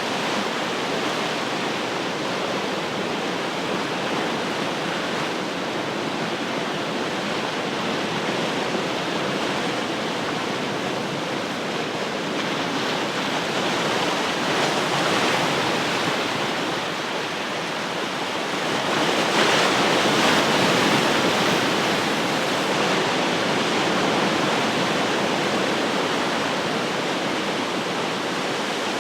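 Ocean surf: a steady wash of breaking waves, with a bigger wave swelling and breaking about two-thirds of the way through.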